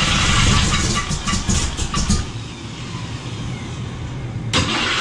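Starter motor cranking a Ford 302 small-block V8, very loud, in two spells: from the start to about two seconds in, then again near the end. The starter is no longer dragging.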